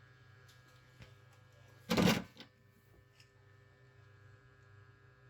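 Steady low electrical hum at a repair bench, with a few faint clicks of small tools or parts being handled and one brief loud rush of noise about two seconds in.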